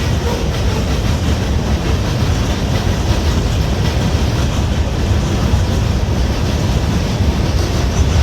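Freight train cars rolling past at close range: a steady heavy rumble with wheel and rail clatter.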